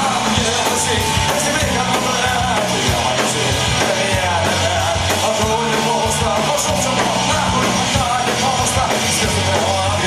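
A live punk rock band playing loud, with drums and bass under wavering melodic lines.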